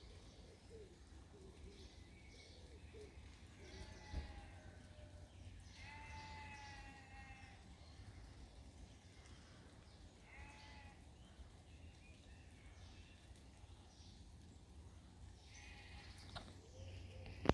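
Sheep bleating several times, one bleat longer than the rest, over the faint steady hiss of rain. There is a sharp tap about four seconds in, and another near the end.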